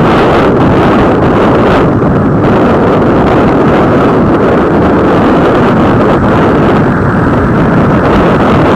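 Loud wind buffeting the microphone on a moving motorcycle, with engine and road noise underneath.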